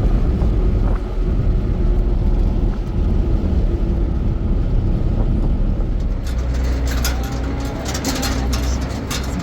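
Steady low rumble of a motor vehicle running, with rattling and clicking from about six seconds in.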